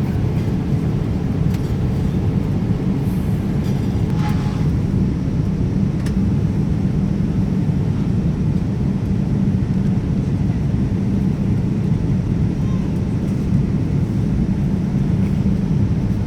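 Airliner cabin noise: the steady low rumble of jet engines and airflow heard from inside the passenger cabin.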